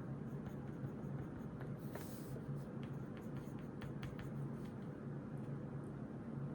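Pen writing on notebook paper: short scratchy strokes and taps, with a brief louder rustle about two seconds in, over a steady low hum.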